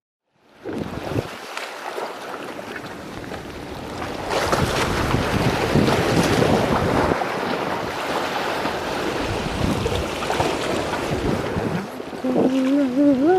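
Strong wind gusting over the microphone with sea surf beneath it. Near the end a short wavering pitched sound rises in pitch.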